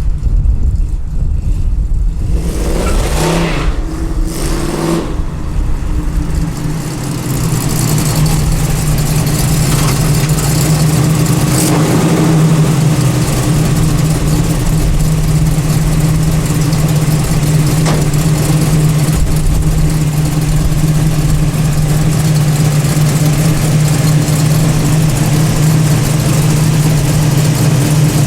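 1972 Chevrolet C10 pickup's small-block Chevy V8 running. Uneven for the first few seconds, then settling to a steady, even engine note from about five seconds in.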